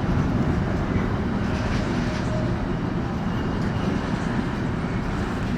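A train moving through the station: a steady rumble of wheels on the track.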